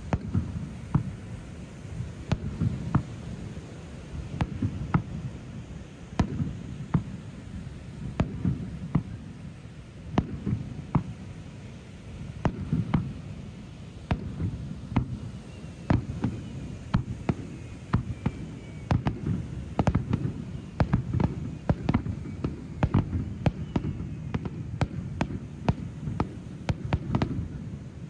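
Fireworks display: aerial shells bursting one after another, low booms mixed with sharp cracks that come several a second in the second half. Faint whistling glides are heard around the middle.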